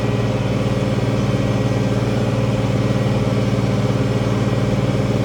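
International Harvester 1566 tractor's turbocharged six-cylinder diesel running steadily at a constant pitch while pulling a field cultivator.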